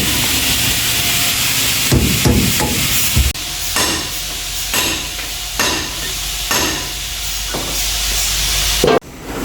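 Hammer striking repeatedly, about once a second in the second half, over a steady hiss.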